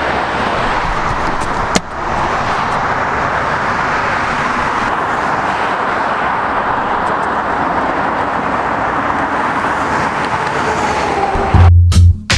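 Steady rushing road and traffic noise, with one sharp click just under two seconds in. Music with a heavy bass beat cuts in just before the end.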